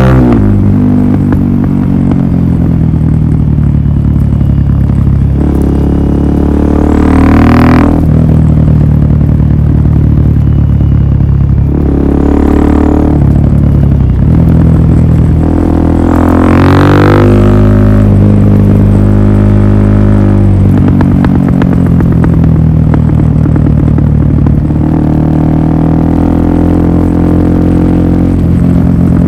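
Suzuki DR-Z400SM's single-cylinder four-stroke engine running through a Yoshimura full exhaust system. Its pitch steps up and down several times, and the revs rise sharply three times, about seven, twelve and seventeen seconds in.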